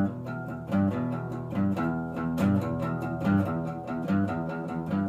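Guitar intro to a country-style song, played as a steady rhythmic pattern of picked notes over alternating bass notes.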